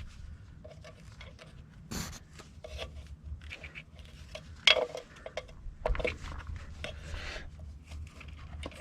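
Metal clinking, scraping and small clicks as hands work a drum brake's spring clip, trying to push it in and turn it free.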